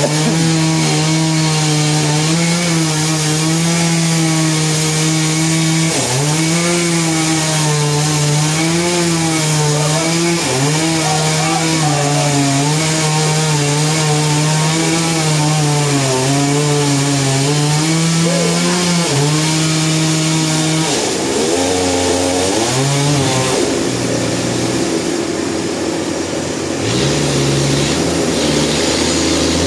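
Engine-driven saw cutting through a large log, its engine note dipping and recovering over and over as it loads up in the wood. About two thirds of the way through the note breaks off and a lower, rougher engine sound takes over.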